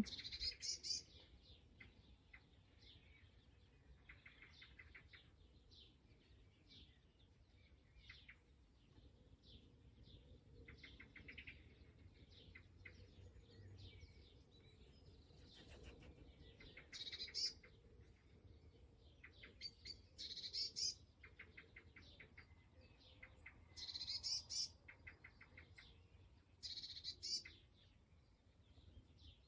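Faint songbird chorus: scattered high chirps and rapid trills, with brighter calls breaking out every few seconds.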